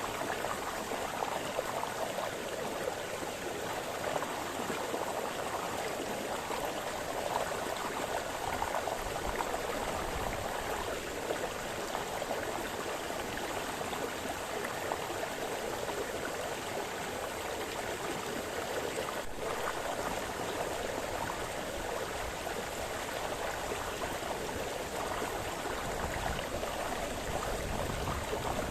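A small woodland brook splashing and burbling over stones, a steady rush of running water.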